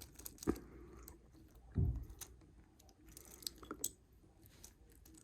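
Small plastic Lego pieces being handled and pressed together: scattered light clicks, with one dull thump a little under two seconds in.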